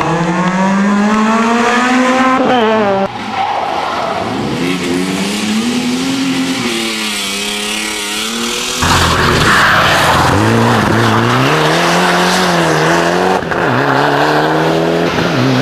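Rally car engines revving hard, their pitch climbing and dropping through gear changes, with sudden cuts from one car to another a few times. From about nine seconds in, a loud rushing noise sits over the engine.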